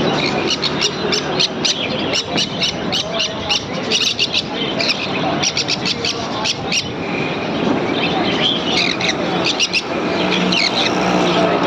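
Green parrot calling: a rapid run of short, sharp, high chirps that pauses about seven seconds in and picks up again briefly, over a steady background hum.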